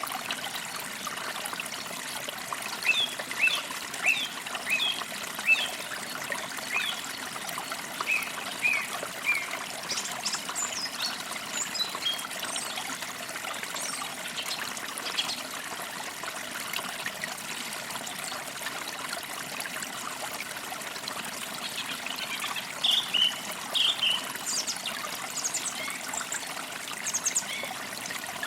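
A small forest creek trickling steadily over stones, with songbirds chirping in short series over it, most clearly in the first third and again near the end.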